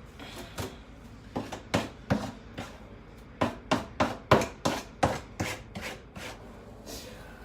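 A comb dragged through a wet, conditioned human-hair wig in a run of quick scraping strokes, about three a second at the busiest, detangling it.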